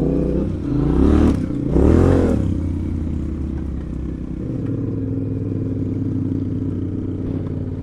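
Adventure motorcycle engine revving up twice in quick succession as it pulls away up a dirt track, then running at a steady throttle.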